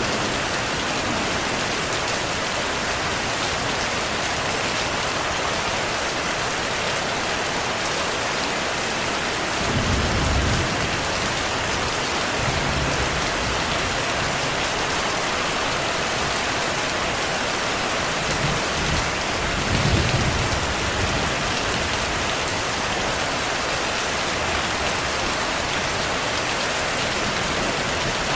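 Heavy rain falling steadily, with low rolls of distant thunder about ten seconds in and again around twenty seconds.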